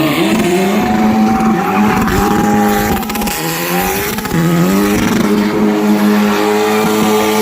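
Formula 4 race car engine revving high and held. The pitch sags for about a second three seconds in, then climbs back and holds.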